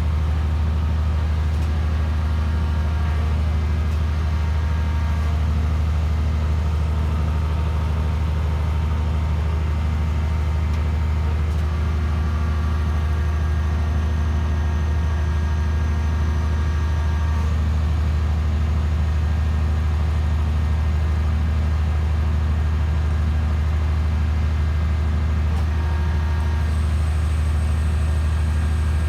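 Hydraulic static pile driving machine's engine and hydraulic power unit running steadily: a constant low drone with steady tones above it and no hammer blows.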